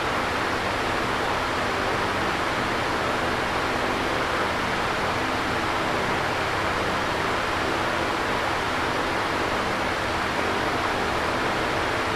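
Electric fan running steadily: an even rush of moving air with a faint low hum underneath.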